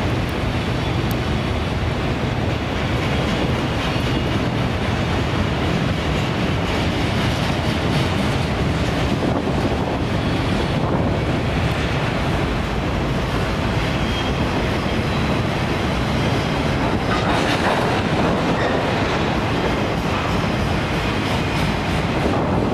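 A train passing, with the steady noise of wheels running on the rails.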